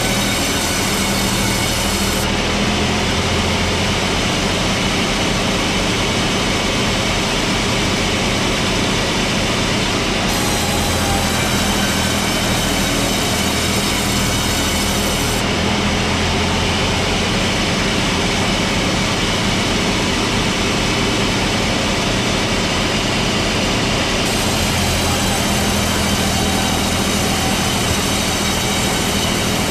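Sawmill machinery running steadily, a loud, dense mechanical noise with several high, steady whining tones over it.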